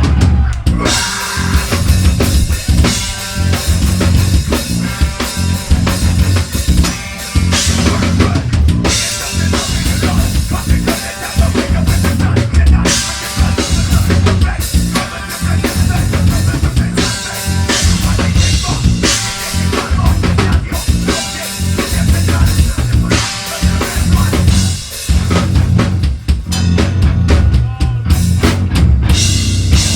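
Live metal band playing a song. The full band comes in at once right at the start, with drum kit and heavy low bass continuing densely throughout.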